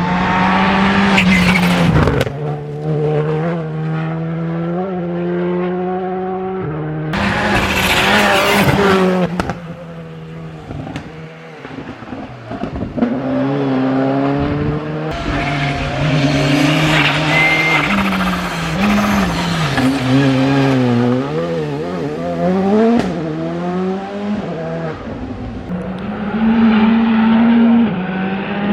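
Skoda Fabia R5 rally car's turbocharged four-cylinder engine driven flat out over several passes, revving up and dropping through gear changes. Twice there is a loud burst of tyre noise.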